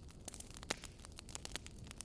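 Wood fire crackling: irregular sharp pops and snaps over a low steady rumble, with one louder pop under a second in.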